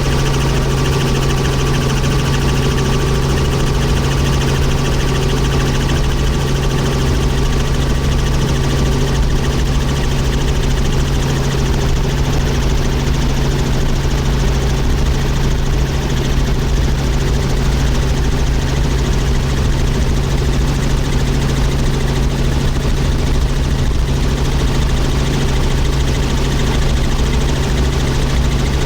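Helicopter in flight: a loud, steady drone of rotor and engine with a strong constant low hum.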